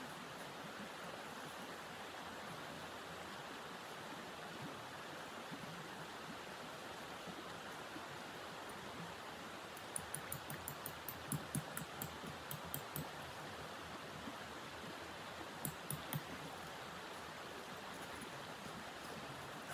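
A steady rushing hiss, with a quick run of short crisp crunches about halfway through and a few more some seconds later.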